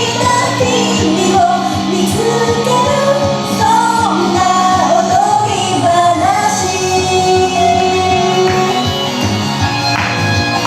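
Japanese idol pop song: a solo female voice singing a melody over pop music with a steady beat.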